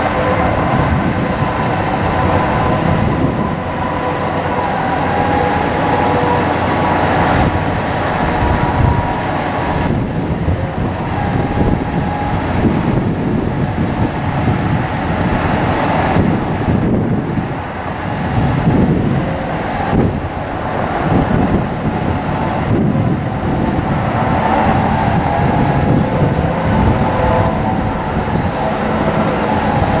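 Bucket truck's engine running with the PTO-driven hydraulic pump engaged: a steady mechanical rumble with a whine held on a couple of steady pitches, dipping slightly in loudness now and then.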